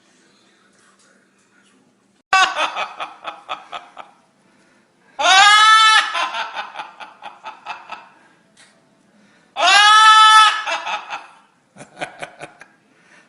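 A parrot cackling with a loud imitation of human laughter. There are four bouts: three that each open with a high held cackle and break into a rapid, stuttering 'ha-ha-ha' that fades out, then a shorter fourth bout near the end.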